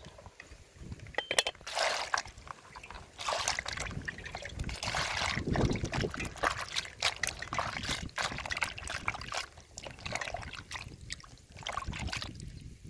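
Water trickling and splashing in irregular bursts, with scattered clicks and knocks, as when food is handled in water.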